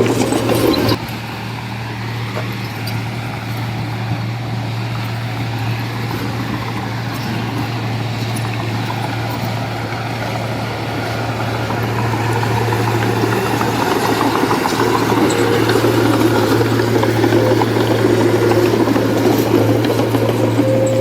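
Heavy diesel machinery engine running steadily with a low hum. The level drops suddenly about a second in, then slowly grows louder through the second half.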